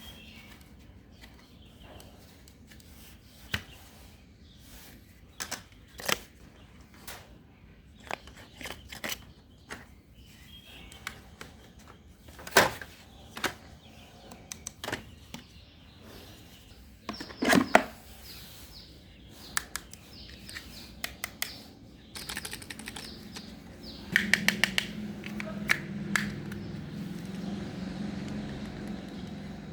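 Scattered clicks and knocks of small hard objects being handled and rummaged through. About three-quarters of the way in, a steady low hum starts, like a small electric motor running.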